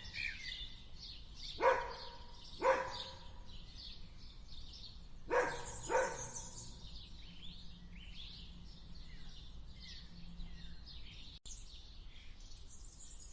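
A dog barks four times, in two pairs about a second apart, over continuous high-pitched bird chirping.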